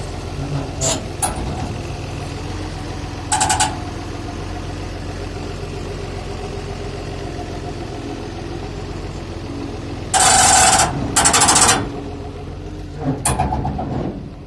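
A heavy vehicle engine running steadily at idle, with short, loud hissing bursts: one about three seconds in, two close together past the ten-second mark, and one near the end.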